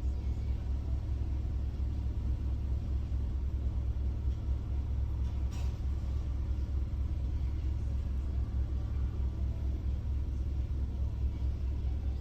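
Steady low rumble of a car idling at a standstill, heard from inside the cabin.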